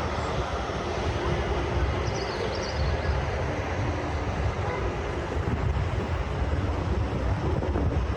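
Steady low rumble of passing road traffic, with wind buffeting the microphone.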